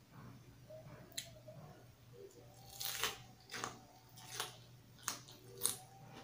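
Close-up crunchy chewing of a raw leafy vegetable wrap: a sharp bite about a second in, then about five crisp crunches spaced under a second apart.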